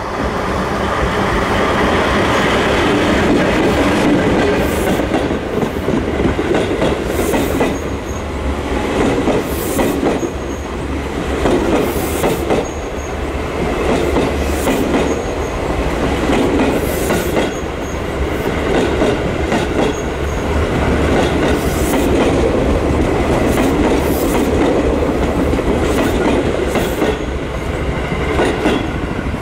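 A long train rolling past, its wheels clacking over rail joints in paired beats about every two and a half seconds, over a steady rumble.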